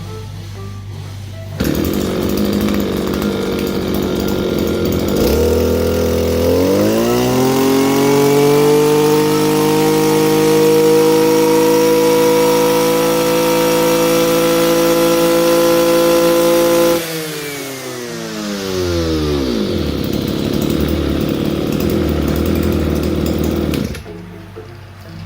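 Kioritz SRE2350G brush cutter's two-stroke engine running: it idles, revs up about six seconds in and holds at high speed for about ten seconds, then drops back to idle and stops near the end. The engine revs freely with its clogged muffler cleaned out.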